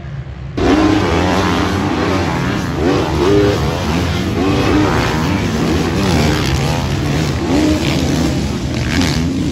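Motocross motorcycle engines racing, revving up and down repeatedly through gear changes and throttle, starting suddenly about half a second in.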